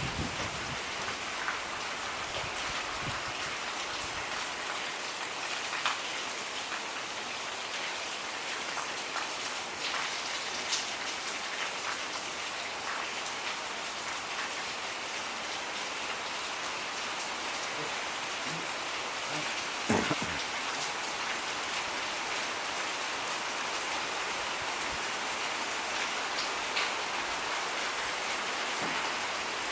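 Steady rain falling, a dense hiss with scattered louder drops hitting a surface. About 20 seconds in there is a single sharper drip or knock.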